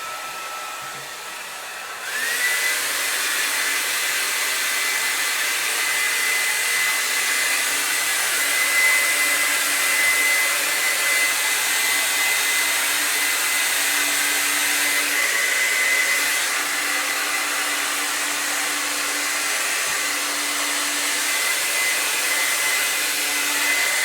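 Hand-held blow dryer running: about two seconds in it steps up to a louder, higher setting, its motor whine rising in pitch over the rushing air, then runs steadily and cuts off at the end.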